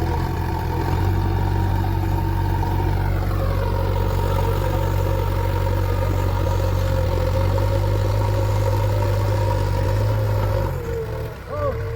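JCB 3DX backhoe loader's diesel engine running steadily, with a whine that falls in pitch about a third of the way in. The engine sound drops off abruptly near the end.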